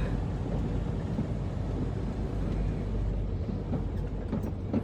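Semi truck's diesel engine running with a steady low rumble as the truck reverses slowly toward a loading dock.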